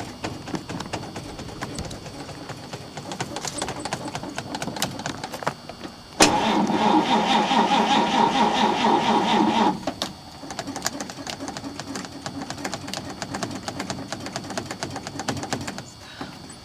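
1948 Chevrolet's starter cranking the flooded engine for about three and a half seconds without it catching, then stopping abruptly. A quieter irregular clattering goes on before and after the crank.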